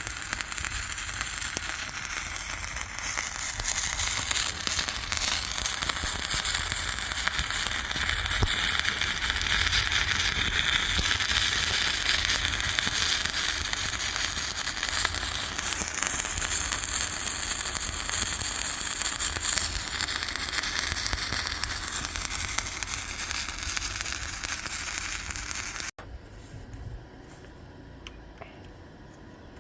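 Electric arc welding: the arc's dense, steady crackle and sizzle, which cuts off abruptly near the end, leaving a low hum.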